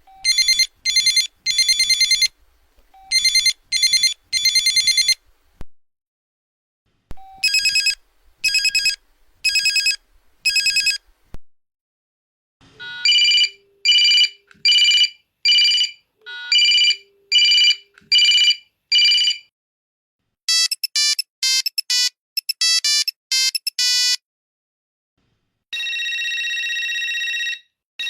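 A series of different telephone rings played one after another: groups of ringing bursts first, then evenly spaced ringtone beeps, then a run of quick short beeps, and a steady held tone near the end.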